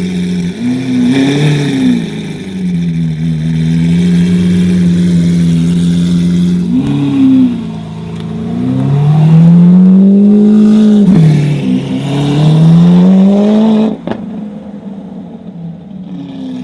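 Lamborghini Aventador's V12 through an aftermarket Fi Exhaust, idling and revved repeatedly: two short blips, then two longer rises and falls in the middle and later part. Near the end it drops back to a steady, quieter idle.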